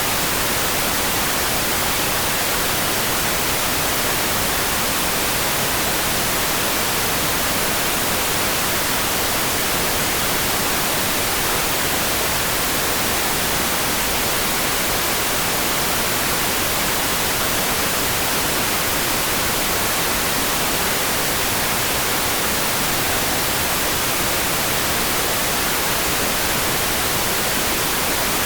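Steady rain sound made as an even, unbroken hiss, heavier in the highs than the lows, with no separate drops, thunder or other events standing out.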